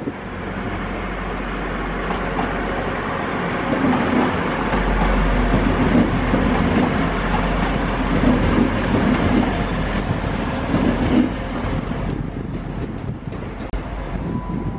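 Class 175 diesel multiple unit running past on the track: a steady mix of engine and wheel-on-rail noise with fine clicks, easing off over the last few seconds as it moves away.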